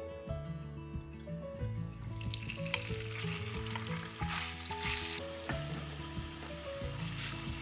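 Food sizzling as it fries in a pan, the sizzle coming in about two seconds in, over background music.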